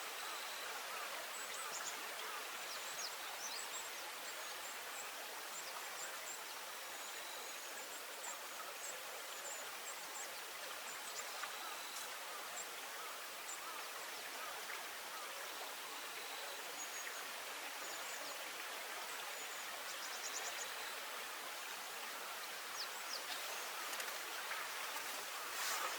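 Steady rush of flowing water, with faint high-pitched chirps and ticks scattered over it.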